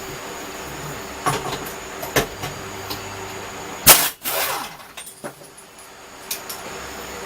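Hard metal clanks and knocks of tools and parts being handled, several spread through the clip. The loudest comes about four seconds in and is followed by a brief ringing rattle, all over a steady hum.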